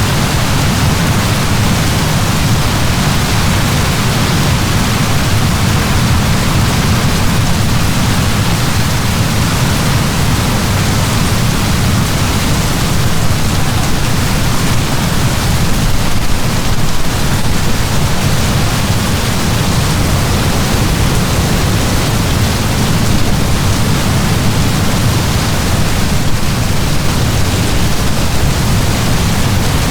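Heavy rain pouring down, a steady loud hiss with a deep low rumble underneath.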